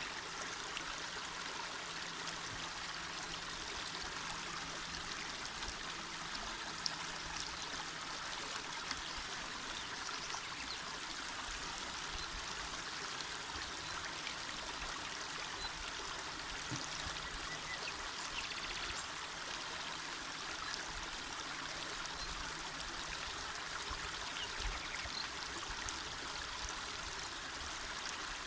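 A small mountain river flowing steadily over stones, its water rushing evenly.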